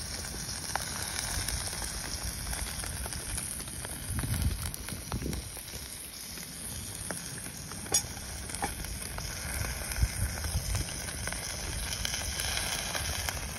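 Steak sizzling and spitting in a pan over a high-output gas camping stove, a steady hiss with a few sharp pops.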